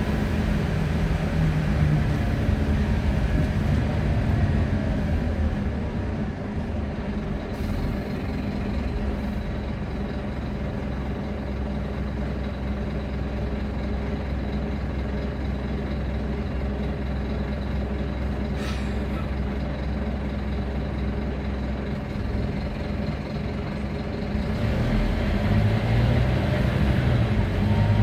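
Wright Scania Solar Rural bus running along, heard on board: the engine note falls in the first few seconds as it eases off, holds lower and steady through the middle, then rises again near the end as it picks up speed. A brief sharp sound cuts in once about two-thirds through.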